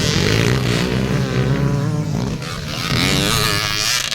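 Enduro dirt bike engines revving hard, their pitch rising and falling with each throttle change as the bikes race by. They are loudest in the first two seconds, ease off briefly, then swell again.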